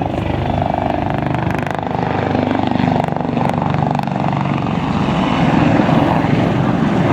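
Westland Lynx HMA 8 helicopter flying a display, its rotor and two Rolls-Royce Gem turboshaft engines running loud and steady.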